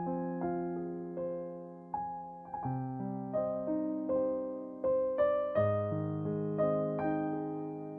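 Background piano music: a slow melody of single struck notes, each fading away, over lower chords that change every second or two.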